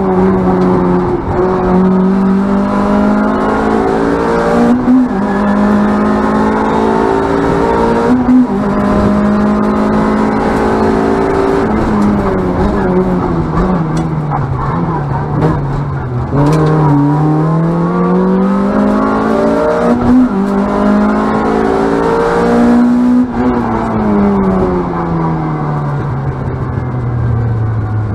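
Ford Fiesta ST race car's engine heard from inside the cabin on a flat-out run. It revs up and drops sharply at gear changes about five and eight seconds in, falls away from about twelve seconds as the car slows, climbs again and then falls off near the end.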